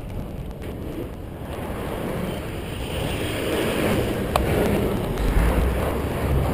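Wind buffeting a GoPro's microphone while cycling: a rough, low rumble that grows louder in the second half, with one sharp click about four seconds in.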